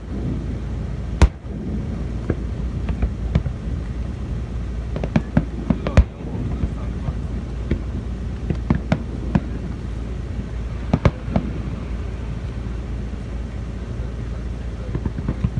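Fireworks going off: sharp bangs, the loudest about a second in and about six seconds in, with a quick run of them near eleven seconds, among many smaller crackles over a steady low rumble.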